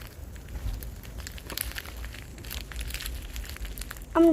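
Plastic granola-bar wrapper crinkling in scattered small crackles as the bar is pushed up through it by hand.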